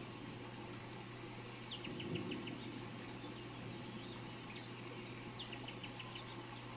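Steady rain hiss with a songbird calling twice, each call a short note followed by a quick run of sharp chips. A brief low rumble swells about two seconds in.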